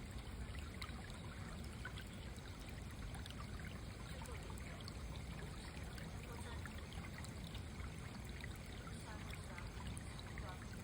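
Steady trickle and rush of a small stream, a continuous even flow of running water.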